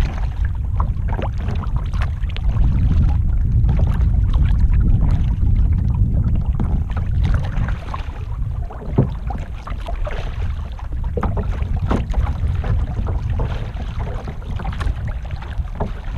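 Kayak paddle strokes splashing and dripping in the water, with wind rumbling on the microphone. The wind is loudest a few seconds in.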